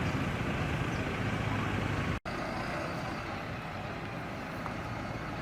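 Steady road traffic noise from vehicles on a highway, a low rumble that briefly cuts out about two seconds in and then continues somewhat quieter.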